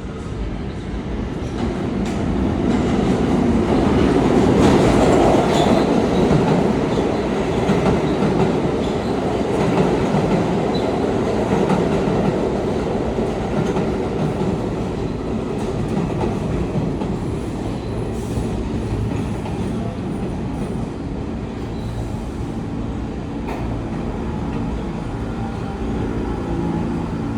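R46 subway train arriving at a station platform: wheels clattering over the rail joints with some wheel squeal, growing louder for the first several seconds as the cars come by, then a steadier rumble as the train slows. Low steady humming tones come in during the last third.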